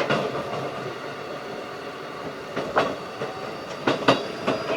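Keikyu 1500 series field-chopper train running at speed: a steady rumble of wheels on rail, with a sharp clack about two and a half seconds in and a quick run of clacks near the end as the wheels cross rail joints.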